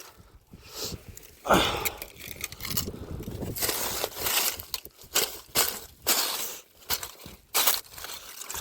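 Footsteps crunching through snow, a series of short crunches about two a second.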